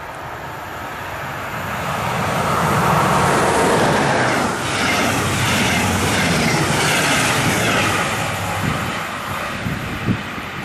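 Regional train with red double-deck coaches passing close at speed: the rumble and rail noise swell as it approaches, with a rhythmic clatter of the wheels over the rails while the coaches go by, then ease off as it moves away. Near the end, wind gusts buffet the microphone.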